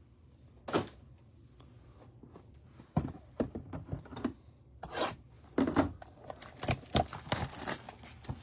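Trading cards and their packaging handled on a table: scattered taps, clicks and rubs. A single sharp tap comes near the start, and the handling grows busier from about three seconds in.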